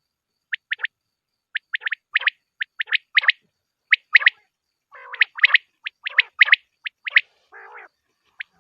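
Quail calling: short, sharp, high notes repeated in quick groups of two or three, with a few softer, lower, rougher notes between them. It is a quail call played back as a lure for hunting.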